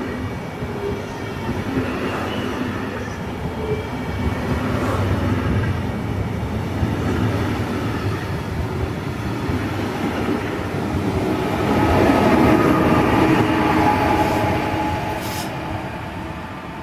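A Belgian (SNCB) passenger train's coaches rolling past close by, with a steady rumble and clatter of wheels on the rails that grows loudest about twelve seconds in, then fades near the end.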